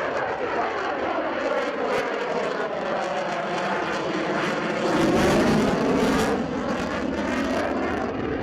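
Eurofighter Typhoon's twin EJ200 turbofan engines running during a display flypast, a loud jet rush with a sweeping, phasing tone. It swells loudest about five seconds in, then eases slightly.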